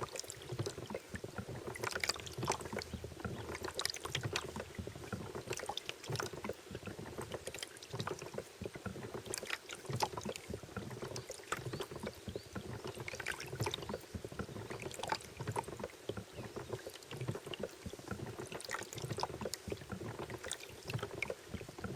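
Water lapping and splashing around a small boat in many small irregular splashes, with a steady hum underneath.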